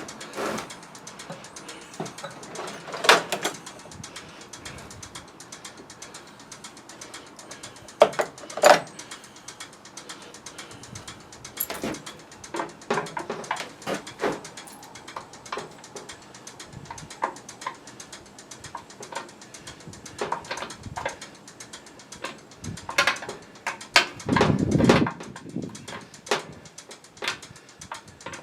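Irregular clicks, taps and knocks of tools and plastic parts being worked while prying a filter out of a pressure washer, with a longer, denser rattle about 24 seconds in.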